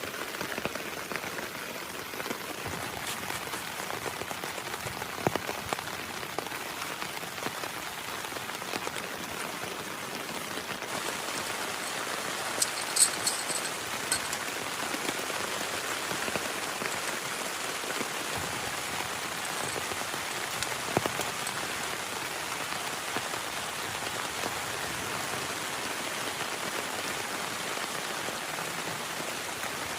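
Heavy rain falling steadily, with scattered louder drop hits and a brief cluster of sharp ticks about 13 seconds in.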